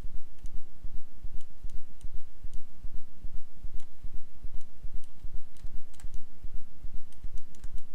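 Scattered computer mouse and keyboard clicks, over a loud, rapidly pulsing low rumble.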